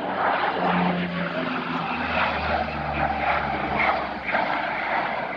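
A four-engine C-130 Combat Talon turboprop passes low and fast. Loud engine and propeller noise comes in suddenly, and the propeller tones drop in pitch as it goes by.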